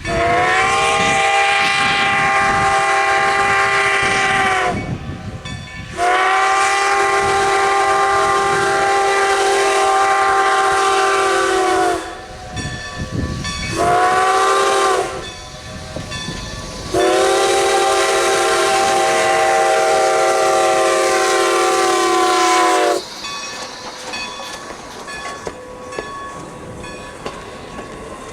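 Steam locomotive whistle of 2-10-0 #90 sounding the grade-crossing signal: two long blasts, a short one, then a final long one. Afterwards the train runs on with rail clatter.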